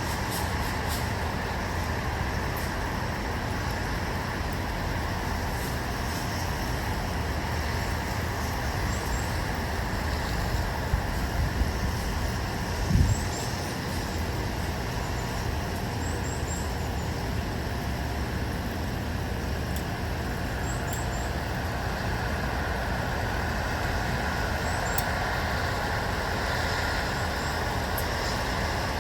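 Steady outdoor ambience of distant road traffic, an even rumbling hum, with one low thump about halfway through.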